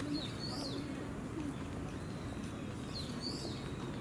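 Birds calling outdoors: two short, high, arching chirps about three seconds apart, over steady low background noise.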